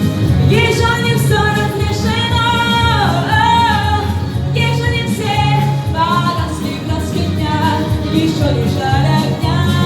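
A young woman singing solo, holding and bending long notes, over instrumental accompaniment.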